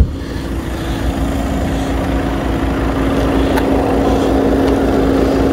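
A car door shuts with a thud, then the Skoda Octavia A8's engine idles steadily with a constant low hum.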